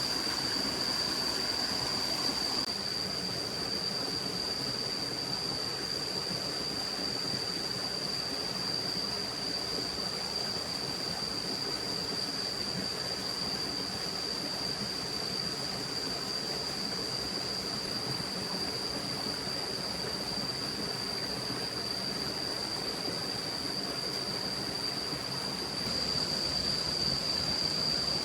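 A stream running steadily, with a steady high-pitched whine over it. The sound drops a little about two and a half seconds in and comes back up near the end.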